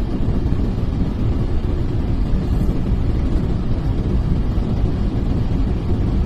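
Storm wind buffeting the microphone: a loud, steady low rumble.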